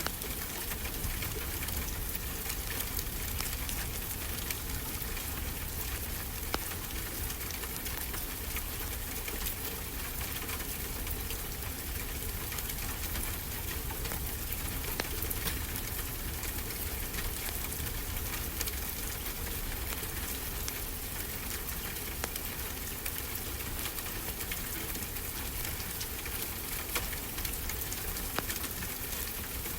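Steady ocean surf mixed with the crackle of a wood fireplace: an even rushing noise with a deep rumble underneath, scattered with many small sharp pops.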